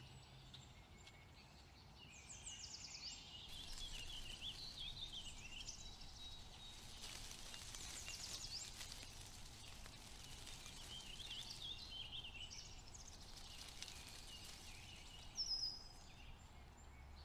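Faint outdoor ambience: small birds chirping on and off, with short high calls scattered throughout, over a low steady background rumble.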